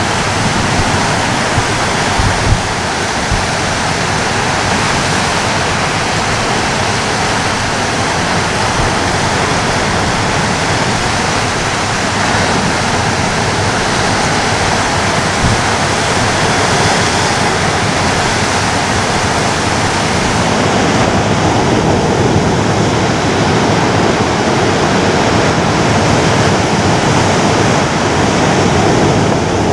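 Ocean surf: waves breaking and washing on a shore, a dense steady rush that grows a little louder about two-thirds of the way through.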